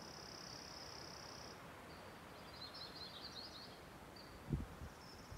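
Faint birdsong from a small songbird: a high, steady trill of about two seconds, then a quick twittering phrase, then more short high trills. A brief low thump comes about four and a half seconds in.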